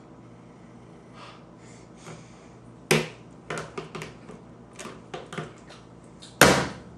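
A series of sharp knocks and taps on a hard surface: one about three seconds in, a handful of smaller taps after it, and the loudest knock near the end.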